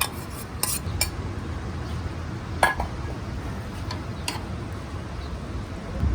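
A utensil clinking and scraping against a cooking pot while food is stirred, a few scattered clinks with the loudest about two and a half seconds in.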